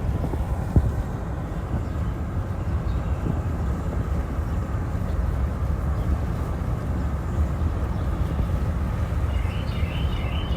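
Steady low outdoor rumble, with a short run of high bird chirps near the end.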